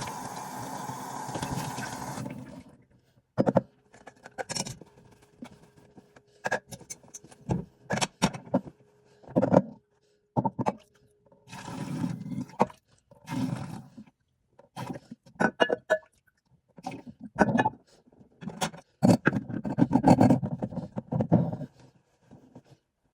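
Kitchen work mixing nectar: water runs steadily for about two seconds and stops, followed by a long run of irregular scrapes and clinks of a utensil against a container.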